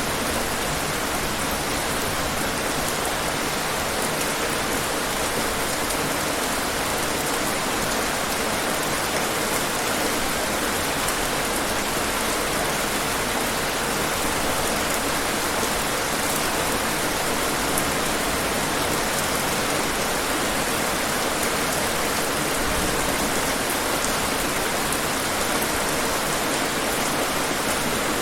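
Steady rain falling on hard surfaces, an even, unbroken hiss of many drops.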